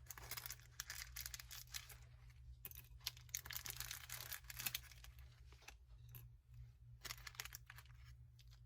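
Light clicking and rattling of tiny miniature ice pieces being dropped by hand into a small cup, in three spells with short pauses between.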